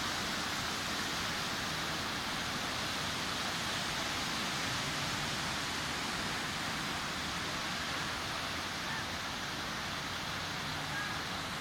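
Sea surf washing onto a beach: a steady rushing hiss, with no single wave standing out.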